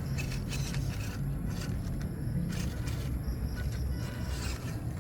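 MN99S D90 RC crawler driving on a wet dirt track: the small electric drivetrain runs, and the tyres scrape over the ground in several short scratchy bursts.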